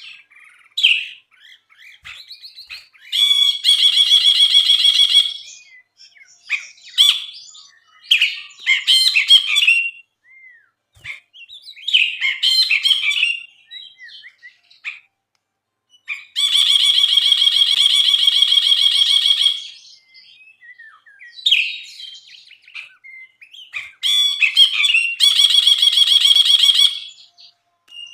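Brinji bulbul singing loudly, short chattering phrases broken by three longer buzzing, rattling bursts of two to three seconds each, about three seconds in, past the middle, and near the end.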